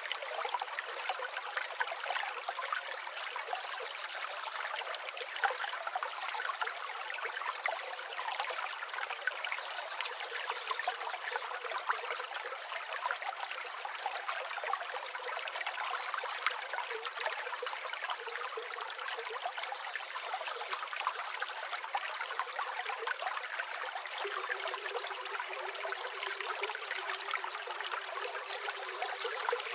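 Flowing river water, a steady babbling trickle with no low rumble.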